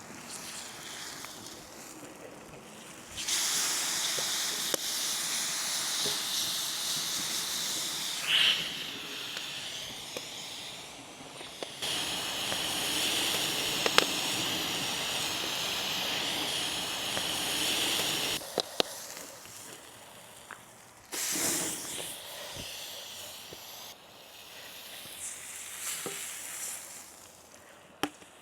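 Food sizzling in a hot pan over a campfire, with scattered sharp pops. A loud sizzle starts suddenly about three seconds in and runs for some fifteen seconds, then comes back twice in shorter bursts.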